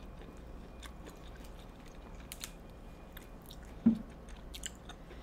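Close-miked chewing and wet mouth sounds of people eating soft baked spaghetti squash with chicken and melted cheese, with small clicks and smacks. A brief, louder low thump about four seconds in.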